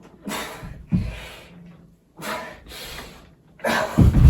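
A man straining to lift a heavy rock, gasping and grunting with effort in about four forced breaths; the last one, near the end, is the loudest.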